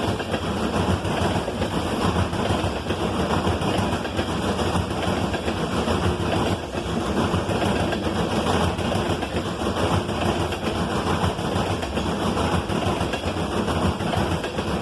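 Loaded coal train rolling steadily past: a continuous rumble with rapid metallic clatter of wheels on the rails.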